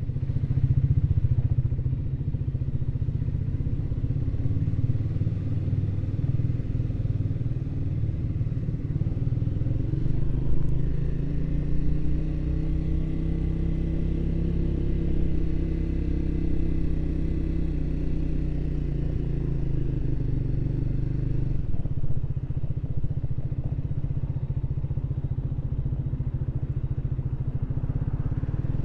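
Triumph Speed 400's single-cylinder engine running under way, its pitch rising and falling gently, with a change in engine note about twenty-two seconds in.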